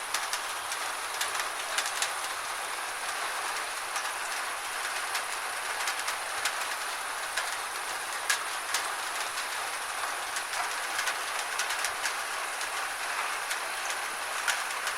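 Gentle rain falling steadily: an even hiss with many separate drops ticking sharply at irregular moments.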